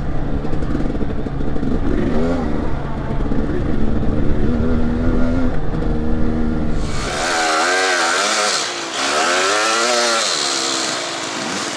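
Dirt bike engine running on a trail ride, its revs rising and falling. About seven seconds in the sound changes abruptly: the deep rumble drops away and a brighter rushing hiss comes in, with the engine revving up and down again and again.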